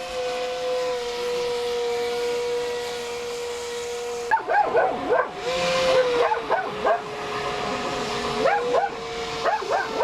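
A model boat's motor whines steadily, stepping up and down in pitch a few times. From about four seconds in, a dog barks and yelps repeatedly in quick clusters.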